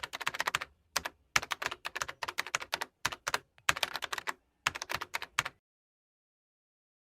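Rapid clicking of keyboard typing in several short bursts, stopping about five and a half seconds in.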